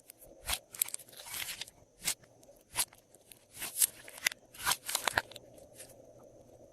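Glossy slime being squeezed and mixed by hand, giving off an irregular run of sharp clicks and crackles that stop a little past five seconds in.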